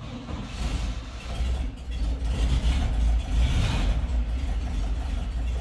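Classic Volkswagen Bus flat-four engine on a cold start, catching and running with a low rumble that grows louder over the first two seconds and then runs steadily.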